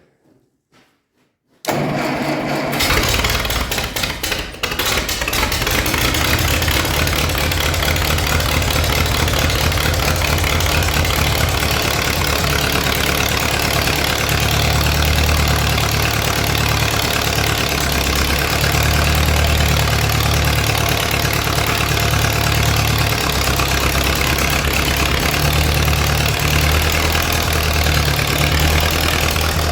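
1958 Case 510 tractor engine starting cold with the choke full out: it catches suddenly about a second and a half in, runs unevenly for a few seconds, then settles into a loud, steady idle.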